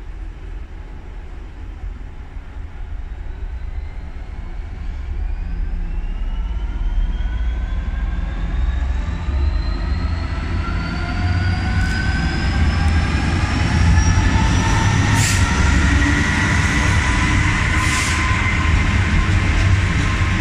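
GB Railfreight Class 66 diesel locomotive hauling a freight train of hopper wagons past, its two-stroke V12 engine rumbling louder and louder as it approaches. Several whining tones climb slowly in pitch as it nears. The wagons roll by close at the end, with two sharp clicks a few seconds apart.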